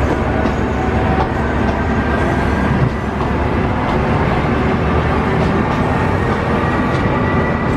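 Oigawa Railway Ikawa Line train heard from on board as it pulls out of a station: a steady running rumble, with a faint high whine rising slowly in pitch as it picks up speed.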